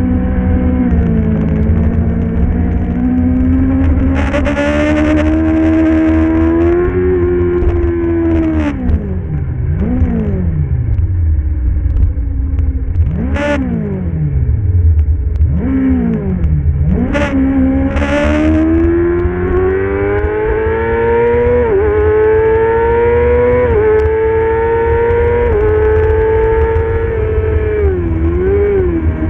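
Middleweight superbike engine at racing speed. Its pitch climbs through the gears with quick upshifts and falls steeply several times as it is run down the gears for corners, over a heavy low rumble.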